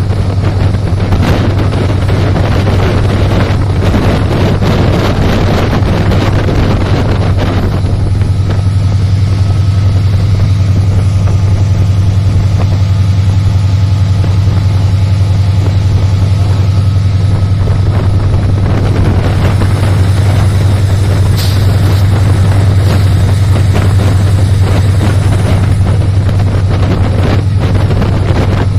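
A train running: a loud, steady low rumble with scattered clicks, and wind buffeting the microphone.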